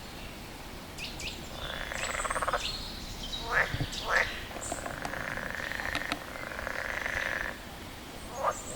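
Frog calling: a pulsed, buzzy croak about two seconds in and a longer drawn-out call in the middle. Short sharp calls are the loudest, about three and a half and four seconds in and again near the end, with faint high chirps above.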